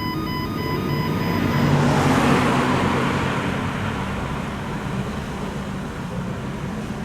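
A car's engine and exhaust driving past, swelling to its loudest about two seconds in and then fading away under a steady low engine drone.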